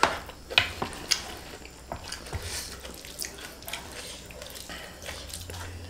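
Close-up eating sounds of fried kuey teow (flat rice noodles): wet chewing and smacking, with a few sharp clicks scattered through, the loudest at the very start.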